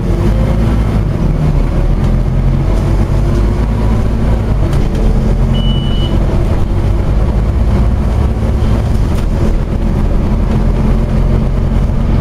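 Scania OmniCity double-decker bus's diesel engine running steadily, with a short high beep about six seconds in.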